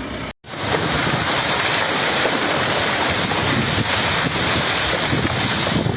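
Steady, loud rushing noise that starts after a brief dropout about a third of a second in, with no distinct tones or strokes in it.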